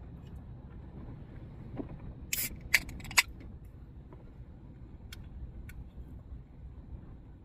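A drink can being opened: a brief hiss and two sharp clicks a little over two seconds in, over a steady low rumble.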